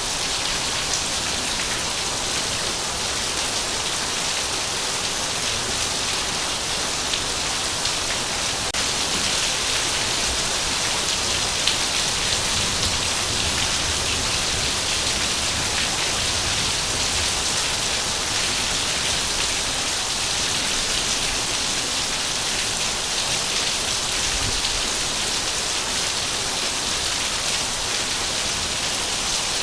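Heavy rain falling steadily, a dense even hiss of drops hitting a surface, with a few faint sharper drop ticks.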